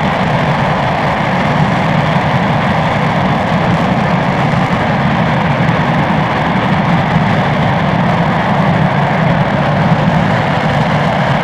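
RS-25 liquid-hydrogen/liquid-oxygen rocket engine firing steadily on a static test stand, a loud, unbroken noise partway through a full-duration hot fire.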